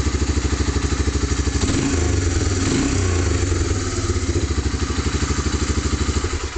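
Honda TRX300 ATV's single-cylinder four-stroke engine idling with an even, quick pulse. It picks up speed briefly about two seconds in, settles back, then shuts off at the end.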